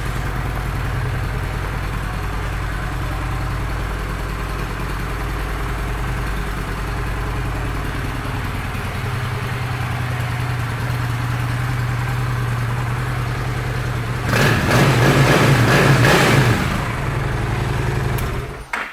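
2009 Honda Shadow Spirit 750's V-twin engine idling steadily, then revved once, louder for about two seconds, before it is shut off near the end.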